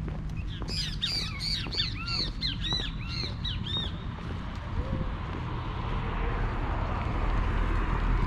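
A bird calls about ten times in quick succession, roughly three calls a second, for about three seconds. After that a rushing noise swells and grows louder.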